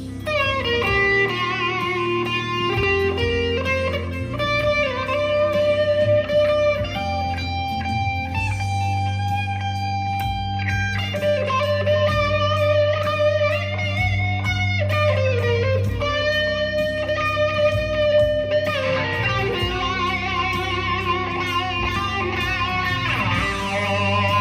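Electric guitar played through a Blackstar ID15 TVP amp with a Dunlop Cry Baby wah pedal: held notes and short phrases, with the wah sweeping the tone up and down.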